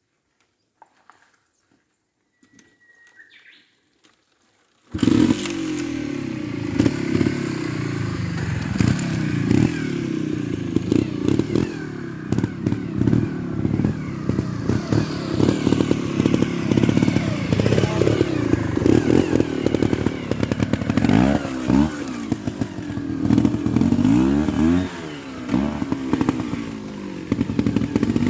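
Near silence for the first few seconds, then a trials motorcycle engine cuts in suddenly and runs loudly. Its pitch rises and falls repeatedly as it is revved, with quick blips toward the end.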